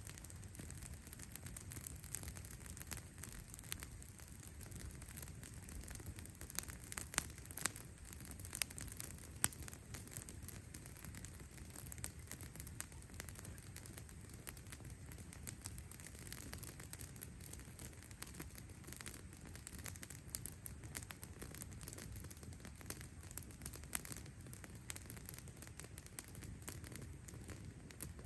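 Campfire crackling and popping at an irregular rate over a low steady rumble, with a run of louder pops a few seconds in.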